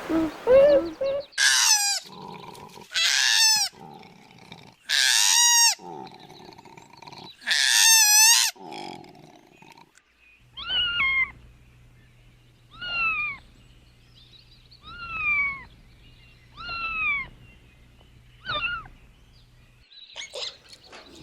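An animal calling: four loud, long, wavering cries, then after a pause five shorter calls that fall in pitch, about two seconds apart.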